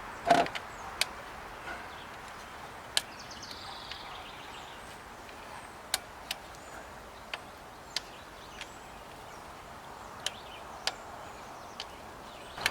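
Scattered sharp metallic clicks and taps of hand tools on a diesel fuel-line fitting as it is worked back into place, irregular and a second or so apart, over a steady outdoor background hiss. A faint high chirping comes about three seconds in.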